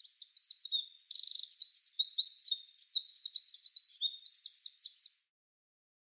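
A songbird singing a fast, varied song of high chirps, rapid trills and quick downward-sweeping notes, cutting off abruptly about five seconds in.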